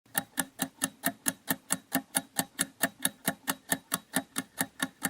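Countdown timer sound effect ticking steadily, about four to five sharp ticks a second, marking the time left to answer a quiz question.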